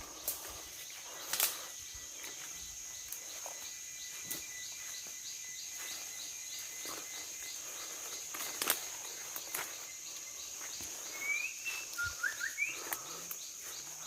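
Tropical rainforest ambience: a steady high-pitched insect drone with a rapid run of short repeated notes through the middle, a few rising bird chirps near the end, and the scattered snaps and crunches of footsteps on forest floor litter.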